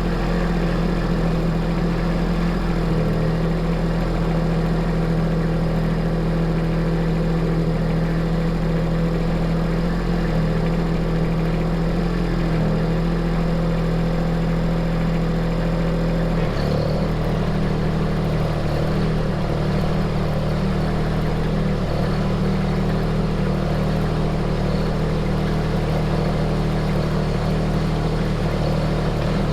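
Engine of a tractor or work vehicle running steadily. About sixteen seconds in, its note steps up slightly and turns rougher, as with a change in throttle or load.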